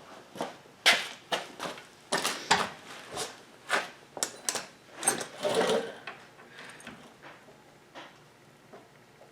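Hand-tool work on a VW front beam's link and king pin assembly: a run of sharp clicks and knocks at irregular spacing, about two a second, thinning out to a few faint taps after about six seconds.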